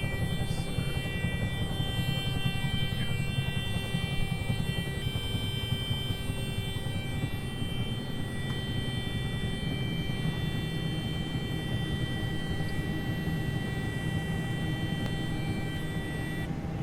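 A combine's grain-tank-full alarm sounds a steady, high electronic tone over the combine's engine running, a sign that the grain tank is full. The tone cuts off near the end, leaving the engine rumble.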